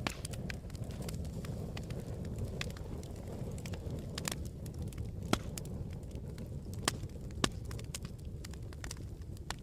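Campfire crackling: irregular sharp pops and snaps over a low steady rumble, with a few louder pops in the second half.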